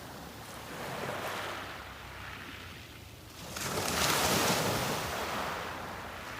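Sea waves breaking on a beach: a small swell of surf about a second in, then a larger wave breaks at about three and a half seconds and its wash slowly fades.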